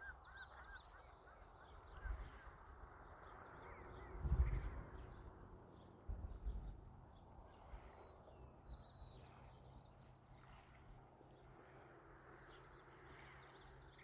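Faint outdoor ambience of birds calling and chirping, with a run of repeated calls in the first second. A low rumble on the microphone about four seconds in is the loudest moment.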